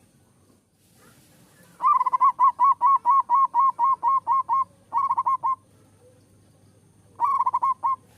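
Zebra dove (perkutut) singing its cooing song: a long run of quick staccato coos, about five a second, then two short runs of a few coos each.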